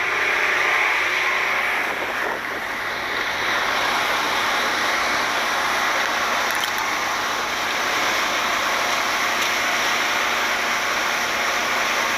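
Fishing boat's motor running steadily under a constant rush of wind and water.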